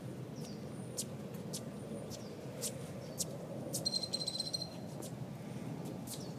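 Small birds chirping: short high chirps, with a brief high trill near the middle, over a steady low background rumble.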